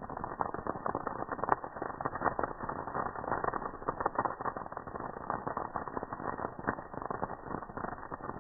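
Campfire crackling and popping: a dense run of irregular small snaps over a soft hiss.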